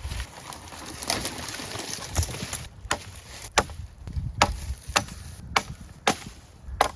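Wood being chopped: a run of sharp, evenly spaced strikes, about two a second, starting about three seconds in, after some rustling.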